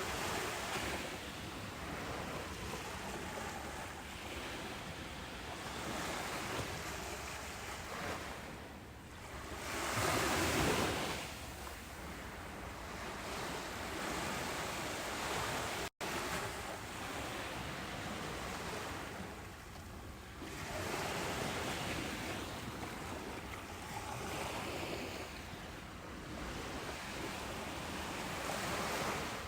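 Ocean waves breaking on a beach: a continuous rushing wash that swells and recedes every few seconds, with the largest wave breaking about ten seconds in. The sound cuts out for an instant about halfway through.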